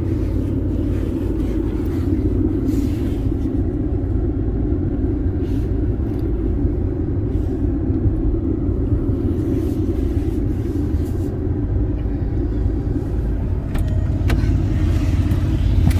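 Audi quattro's engine running steadily, a low even rumble.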